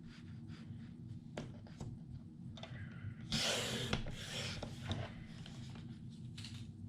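Paper trimmer cutting a sheet of scrapbook paper, with a rasping slide of the blade about three seconds in and small clicks and paper handling around it.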